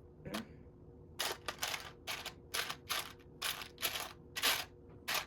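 Loose plastic Lego pieces clattering in short bursts, about ten times, as hands sift through a pile of parts to find a particular piece.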